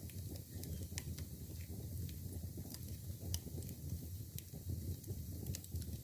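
Wood and bamboo fire burning in an ondol firebox: irregular sharp crackles and pops, a few per second, over a low steady rumble of the flames.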